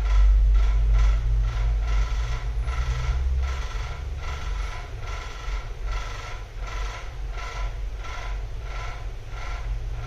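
Rhythmic mechanical clicking, about two clicks a second, over a low rumble that eases after about three and a half seconds.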